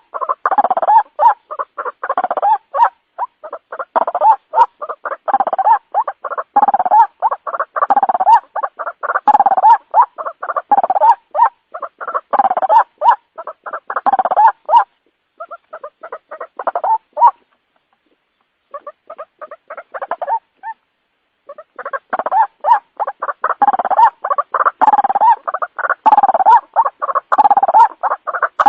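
White-breasted waterhen (ruak-ruak) calls played back as a trapping lure: a loud, rapid, unbroken string of repeated calls. A little past halfway the calls grow sparser and stop briefly, then come back at full strength near the end.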